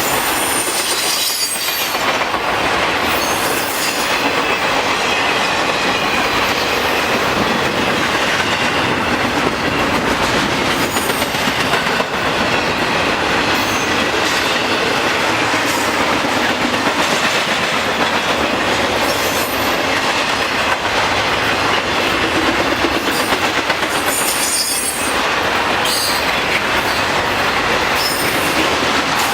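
Intermodal freight cars rolling past at speed: a steady rumble and rattle of steel wheels on rail, with brief high wheel squeals every few seconds.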